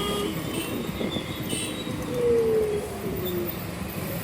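Road and traffic noise heard while riding, with wind on the microphone. About two seconds in, a tone slides steadily down in pitch for a second or so, like a passing vehicle's horn or squeal.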